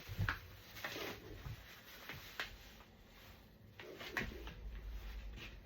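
Scattered light knocks and clicks with soft rustling as playard parts are handled and set down, the firmest knocks near the start and about four seconds in.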